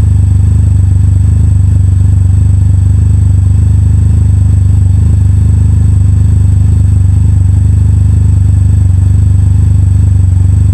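2014 Can-Am Spyder RT-S three-cylinder engine running steadily at constant revs through an aftermarket Akrapovic sports exhaust, a loud deep exhaust note.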